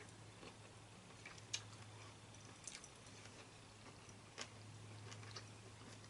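Faint, scattered clicks of chewing and mouth sounds while eating tiger shrimp, over a low steady hum.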